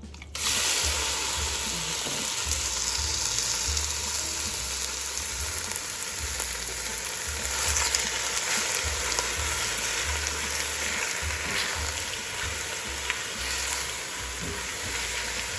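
Chicken strips sizzling in hot olive oil in a frying pan, starting suddenly about half a second in and then a steady hiss.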